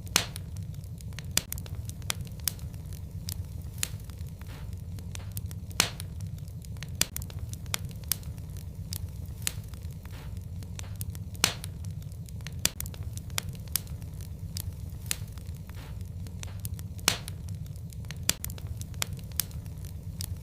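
Fireplace fire crackling: a steady low rumble of the flames under frequent sharp pops, with a handful of louder snaps spread out every five or six seconds.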